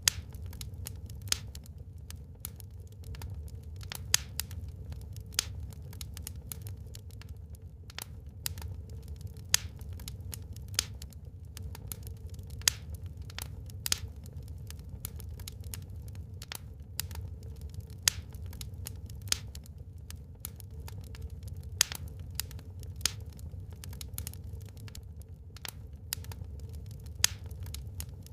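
Wood fire burning in a fireplace: sharp, irregular crackles and pops, one to three a second, over a steady low rumble of the flames.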